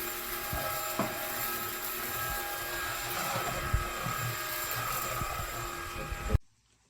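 MONSGA cordless stick vacuum cleaner running with a steady whir and whine, a few light knocks along the way, then cutting off abruptly near the end.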